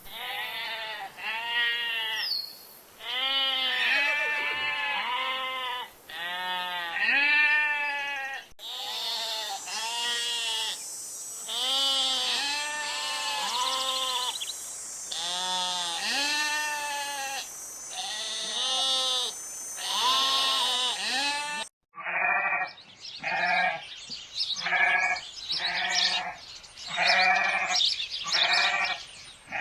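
Sheep and goats bleating over and over, each bleat a short call that rises and falls in pitch. The recording cuts abruptly twice; after the second cut, about three-quarters of the way through, come shorter bleats evenly spaced about one a second.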